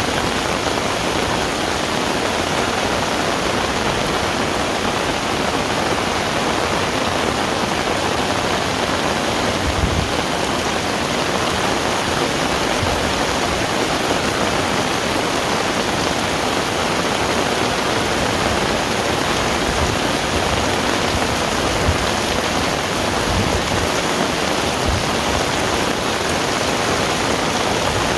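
Heavy rain falling steadily, a dense even hiss with no let-up. A soft low thump stands out a couple of times.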